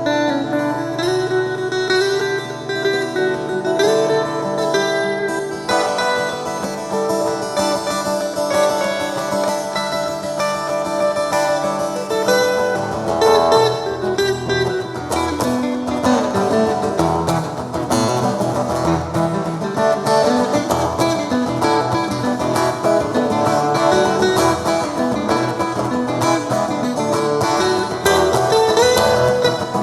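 Acoustic guitar music: plucked melodic lines over strummed chords, played steadily with no singing.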